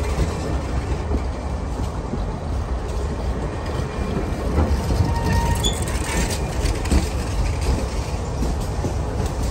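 Passenger train rolling along the track: a steady low rumble with wheel-on-rail noise, and a few short clicks and faint squeaks about halfway through.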